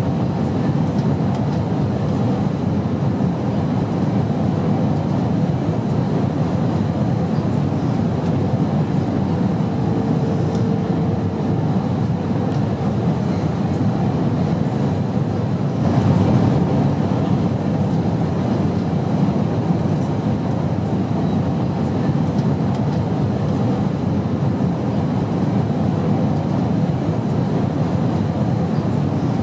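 Steady airplane noise: a continuous low, even rumble, with a faint brief hum about ten seconds in and a slight swell in level around sixteen seconds.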